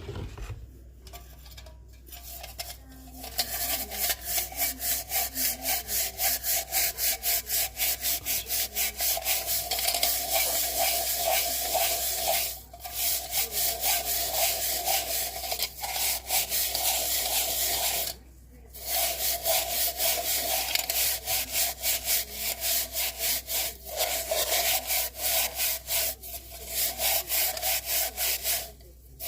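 Fast, even back-and-forth rubbing strokes on wood, several a second, like hand sanding or sawing, in long runs broken by short pauses.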